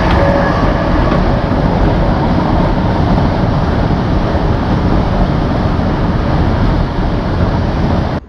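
Class 321 electric multiple unit running at speed, heard from inside the carriage: a steady, loud rumble of wheels on the rails.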